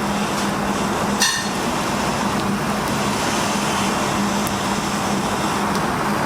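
Steady mechanical hum over a constant rush of noise, with one sharp clink about a second in and a few faint ticks.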